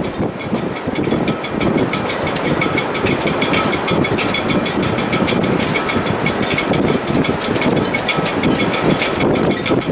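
Sailboat shrouds and rigging in a gale: loud, surging wind noise with a fast, continuous rattle and a faint steady whistle.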